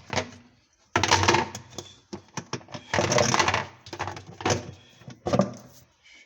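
Hard parts clattering and knocking as they are handled, in several loud rattling bursts with many sharp clicks between them.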